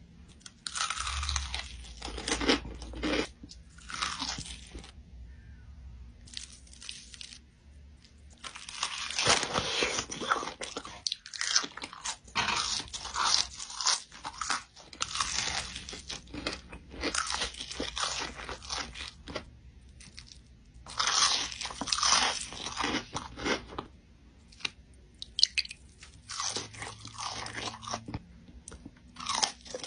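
Crunching and chewing of crispy battered fried chicken and fish, close to the mouth: crackly bites coming in clusters with short pauses between.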